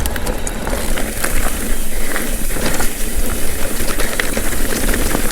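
Mountain bike rolling along a dirt trail: steady tyre noise with frequent clicks and rattles from the bike over the ground, over a low rumble.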